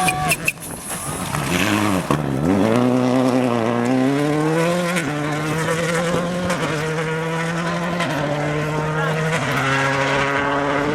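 Rally car engine revving hard on a stage run. Its pitch dips about two seconds in, climbs, then holds high with small steps up and down.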